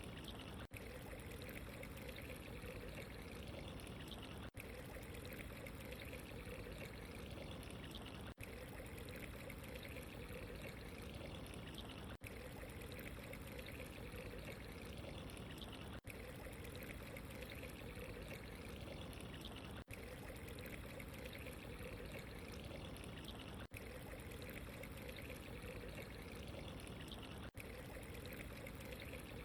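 Steady running, trickling water, unbroken except for a very brief dip roughly every four seconds.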